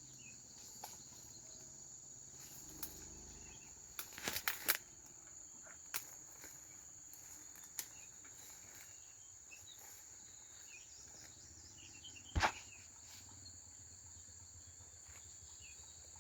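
Steady high-pitched chirring of insects in the background, broken by a few sharp knocks or taps: a quick cluster about four seconds in, single ones around six and eight seconds, and the loudest about twelve seconds in.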